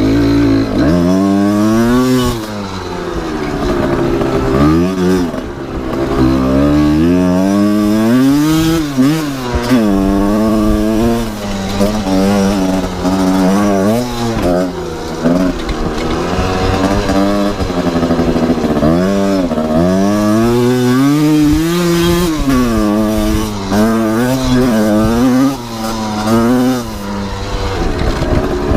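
Two-stroke Kawasaki KR engine in a Honda CRF250R dirt-bike frame, revving up and dropping back again and again. Its pitch climbs and falls repeatedly, with short drops in loudness between the climbs.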